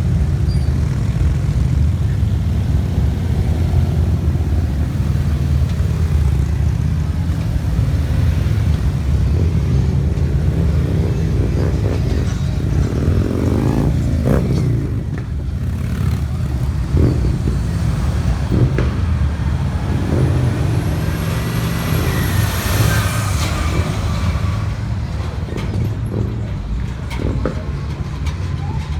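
Many motorcycle engines running together in a steady, loud rumble, with one bike passing close about halfway through, its pitch sweeping as it goes by.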